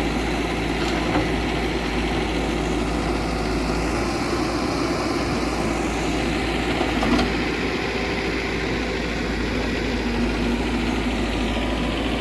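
Heavy diesel engine of earthmoving machinery running steadily near idle, with a couple of brief knocks about a second in and about seven seconds in.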